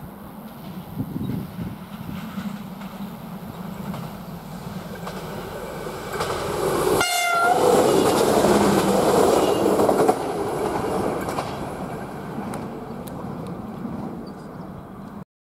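A diesel railcar approaches and passes close by, its engine and wheels on the rails loudest as it goes past. There is a short horn blast about seven seconds in, and the sound cuts off suddenly near the end.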